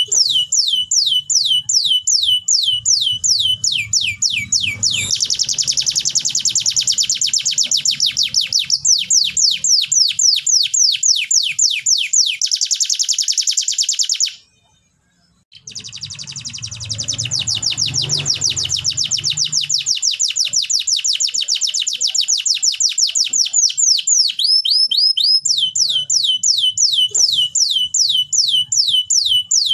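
Canary singing: rapid runs of repeated downward-sweeping notes that give way to dense, fast rolling trills. The song breaks off suddenly for about a second halfway through, then picks up again.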